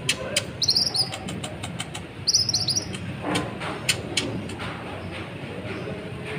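Konin (kolibri ninja sunbird) song: two short bursts of very high, rapid twittering, about half a second in and again at two seconds, with sharp ticking call notes scattered between them over a steady low background hum.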